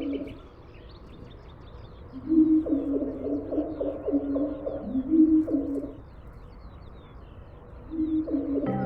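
A dove cooing in two phrases of low, stepped notes, one from about two to six seconds in and another starting near the end, with small birds chirping faintly throughout.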